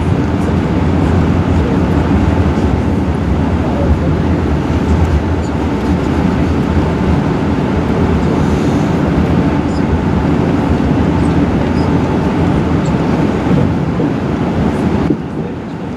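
Airbus A380 cabin noise while taxiing: a steady rumble from the engines at taxi power and the wheels rolling over the taxiway, dropping in level about a second before the end.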